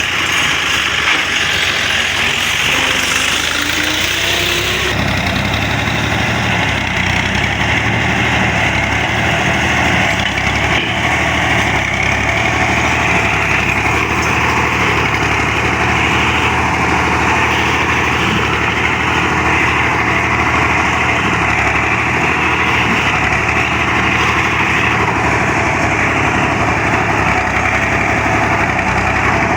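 Farm tractor's diesel engine running steadily. The sound changes about five seconds in.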